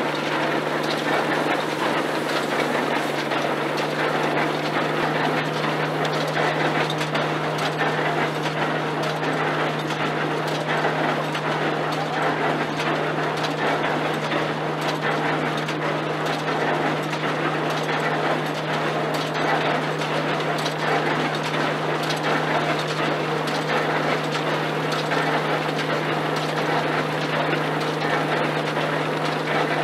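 Vintage belt-driven threshing machine at work, running steadily with a constant low hum under a busy, continuous rattle and ticking of its moving parts.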